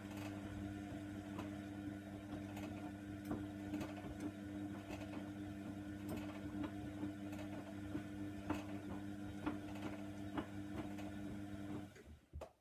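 Hoover Nextra washer-dryer running with a steady motor hum and irregular sharp clicks as the drum turns. It cuts off suddenly near the end.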